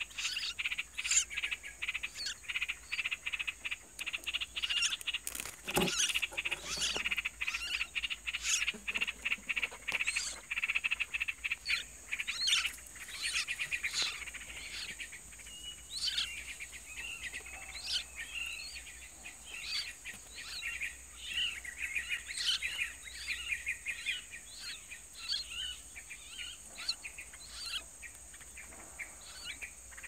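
Birds chirping in quick series of short, high calls that thin out near the end, over a steady high hum. There is a single sharp knock about six seconds in.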